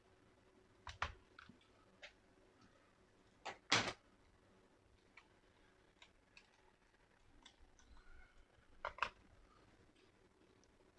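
Scattered clicks and knocks of a laptop's plastic case and small tools being handled during disassembly, the loudest a knock near four seconds in, with double knocks about a second in and near nine seconds and faint ticks between.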